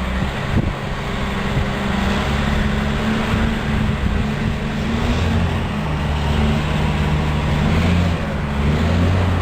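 A motor vehicle running steadily: a low engine hum under a continuous rushing road noise.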